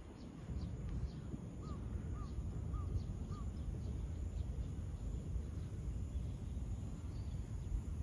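A bird calls four times in a row, short arched notes about half a second apart, a couple of seconds in, over faint high chirps and a steady low outdoor rumble.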